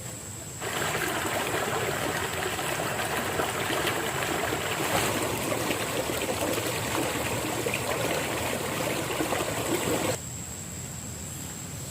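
Running water, a steady rushing splash that starts abruptly about a second in and cuts off near the end. A thin, steady high-pitched tone runs underneath.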